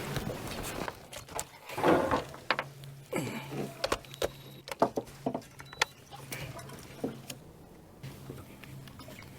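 Scattered clicks, knocks and rattles from handling a freshly landed crappie and tackle in a boat, over a steady low hum.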